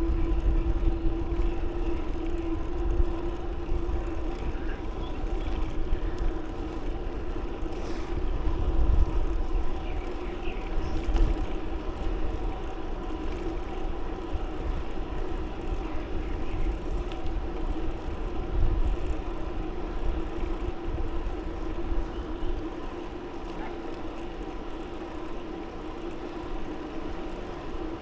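Noise of a bicycle ride: wind rumbling and buffeting on the microphone, over a steady droning hum.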